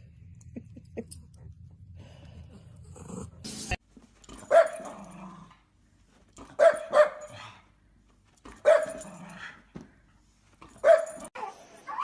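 A dog barking: after a quiet start, four loud barks about two seconds apart, the second one doubled.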